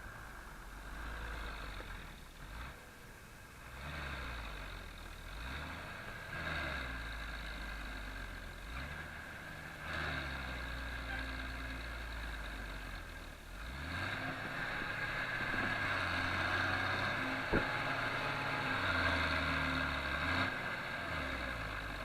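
Farm tractor diesel engine running, its revs rising and falling repeatedly, louder in the second half. There is one sharp click about seventeen seconds in.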